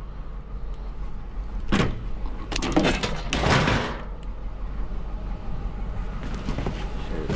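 A vehicle's engine idles steadily, with a loud knock about two seconds in and a longer rattling, scraping clatter just after it. A door-like bang comes near the end.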